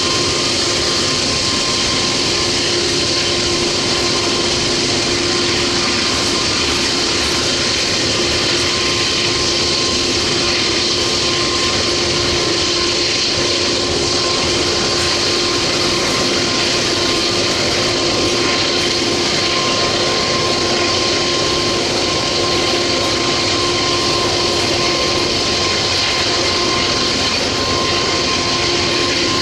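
Loaded coal hopper cars of a heavy Norfolk Southern coal train rolling slowly past uphill: a loud, steady rolling noise of wheels on rail, with a constant whine running through it.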